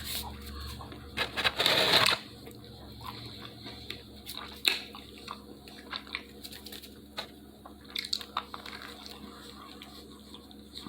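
Close-up eating sounds from someone eating Domino's sausage pizza: chewing with scattered small clicks and smacks. A louder rustling crunch about a second and a half in, then quieter, irregular mouth noises.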